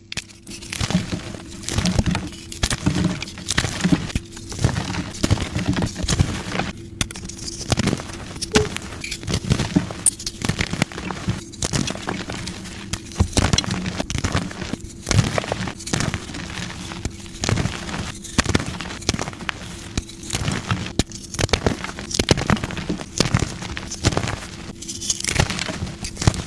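Soft gym chalk blocks being crushed by hand, a steady run of crumbly crackling and short sharp crunches as the chalk breaks apart into powder.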